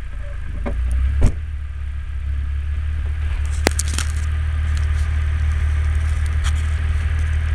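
Jeep Grand Cherokee engine running steadily at low revs, a continuous low drone, with a few sharp clicks or rattles about a second in and again around four seconds in.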